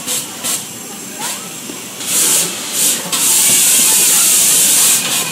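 Compressed air hissing from foam-ball play equipment: two short bursts, then a steady hiss of about two seconds that cuts off sharply.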